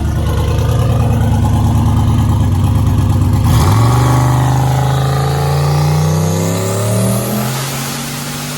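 Turbocharged 5.3-litre LS V8 running loud on a chassis dyno. About three and a half seconds in, the note changes and a high whine rises over the next few seconds, then the sound eases off near the end.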